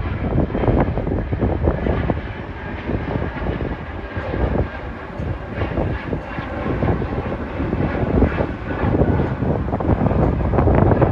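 Jet airliner departing on its takeoff run: a loud rumble of jet engines with a crackling texture. It eases a little mid-way and swells again near the end.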